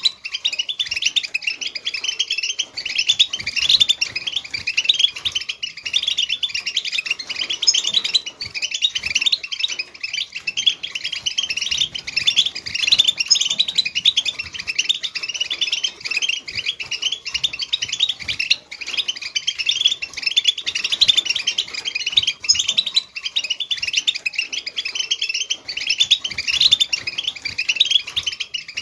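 European goldfinch song: a rapid, unbroken twittering of short chirps, used to stimulate caged goldfinches into singing.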